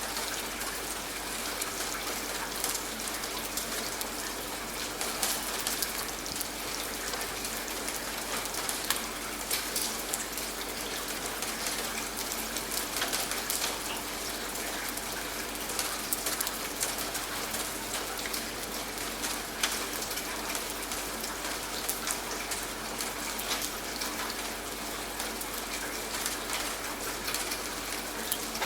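Steady rain falling, with many separate drop hits on a surface.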